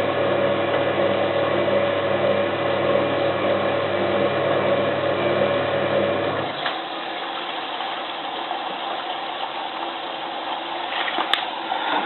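Hotpoint 9534A washing machine humming steadily between its wash and rinse stages; the hum cuts off about six and a half seconds in, leaving a fainter hiss as the machine begins its slow rinse fill.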